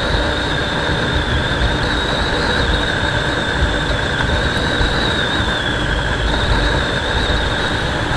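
Wind rushing over an action camera on a motorcycle riding at road speed, with a ragged low buffeting and a steady high whistle that wavers slightly in pitch, the bike running underneath.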